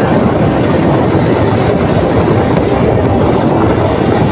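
Motorcycle on the move: a steady, loud rumble of engine and road noise.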